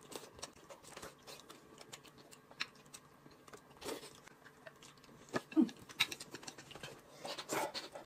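Faint eating sounds: chewing and small wet mouth clicks as a person eats noodles and meat with chopsticks.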